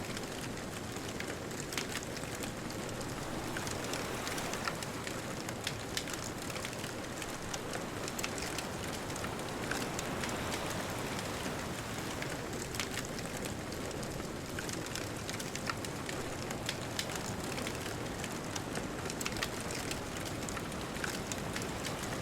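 Beach bonfire crackling, with frequent irregular sharp pops and snaps over a steady rushing hiss of distant ocean surf.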